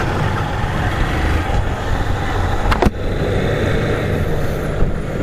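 Motorcycle on the move, with steady engine and road noise. A single sharp click comes just under three seconds in.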